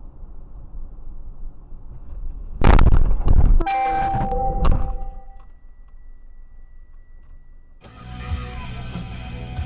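Low rumble of a car on the road, then a loud crash about two and a half seconds in, lasting about a second. It is followed by a steady blaring tone of several pitches for about a second. Music starts near the end.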